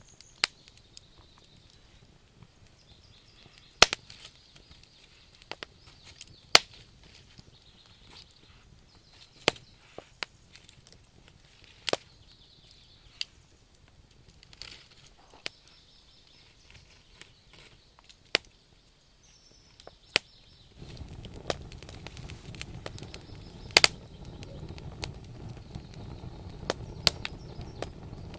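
Wood campfire burning, logs crackling with sharp, irregular pops. About two-thirds of the way through, a steady low rushing noise of the fire rises underneath the pops.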